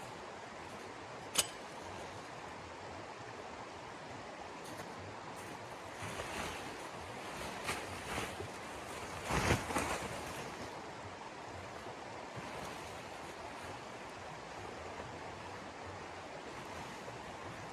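Steady rushing wind noise, with a single sharp click about a second and a half in and a short cluster of louder rustling knocks about halfway through.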